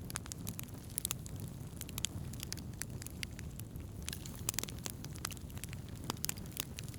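Wood fire crackling, with frequent irregular sharp pops and snaps over a steady low rumble of burning flames.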